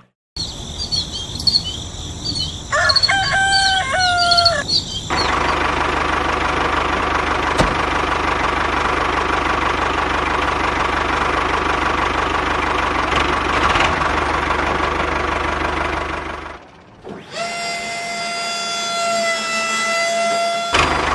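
Birds chirping and a rooster crowing once, then a small motor running steadily for about ten seconds, then a long, steady held call or tone near the end.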